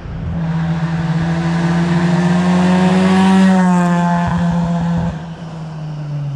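Hillclimb race car passing close by under hard acceleration: its engine note builds to its loudest about three and a half seconds in, then drops in pitch and fades as it goes away up the course.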